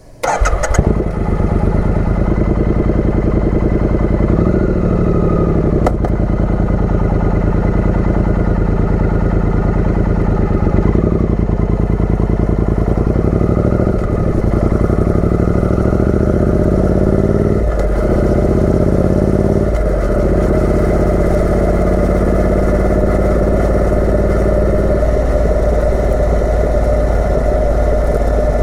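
Triumph Speed Twin 900's parallel-twin engine through an aftermarket British Customs exhaust. It comes in suddenly at the start, then runs loud and steady, the revs rising and dropping back several times.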